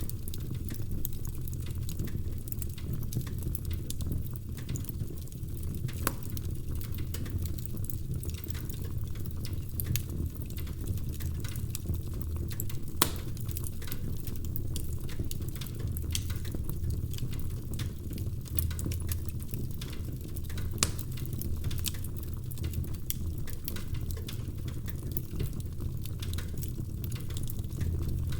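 Logs burning in a fireplace, crackling: many small snaps over a steady low rumble of the fire, with a few sharper pops, the loudest about 13 seconds in.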